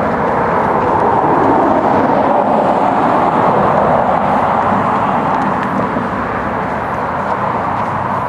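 Steady rushing vehicle noise that swells a little in the middle and eases slightly toward the end.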